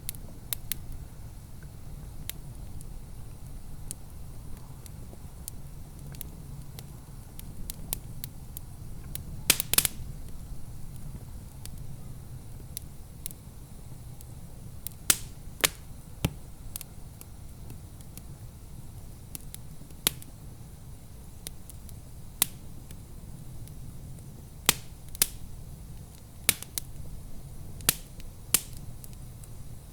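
Wood fire in a fireplace crackling, with sharp pops at irregular intervals and a cluster of louder pops about ten seconds in, over a low steady rumble.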